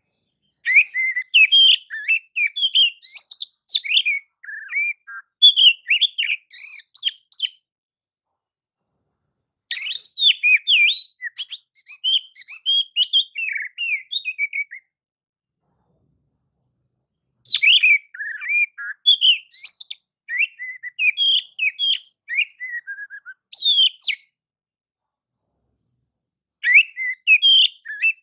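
Oriental magpie-robin (kacer) singing a clear, rapid, varied song of whistled and gliding notes. It sings in four bouts of several seconds each, separated by pauses of two or three seconds.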